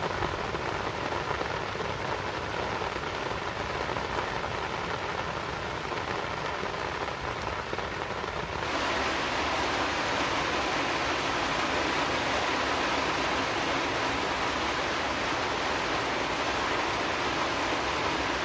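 Steady rainfall, an even hiss of rain on surfaces. About halfway through, the sound switches abruptly to a slightly louder, more even hiss of rain.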